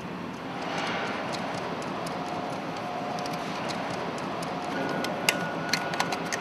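Steady mechanical noise with a faint hum, and a few sharp metallic clicks and taps near the end, typical of hand tools working on the engine's exhaust cladding.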